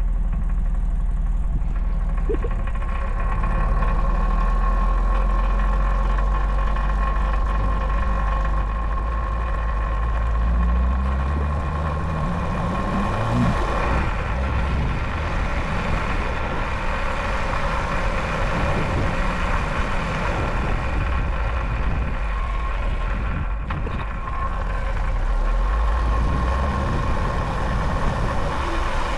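600cc engine of a home-built go-kart running while driving, with the revs climbing once about halfway through. The engine runs rough and won't rev up high, which the owner puts down to it being 'not happy'.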